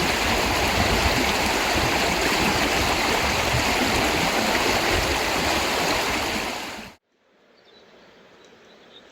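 Stream water rushing steadily and close, then fading out and cutting off about seven seconds in, leaving only a faint quiet background.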